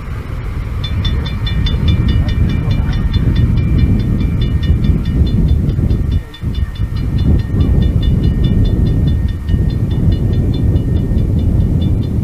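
A train running close by: a heavy, steady rumble with a rapid, even ticking of several ticks a second on top, dipping briefly about six seconds in.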